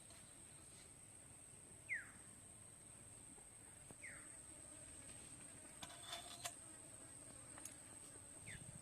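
Faint rural ambience: a bird giving short, quick down-slurred calls about every two seconds over a steady, high, thin insect drone, with a few faint clicks about six seconds in.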